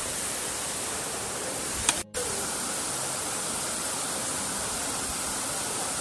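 Steady rush of a waterfall and its stream. About two seconds in, a click and a split-second dropout break it.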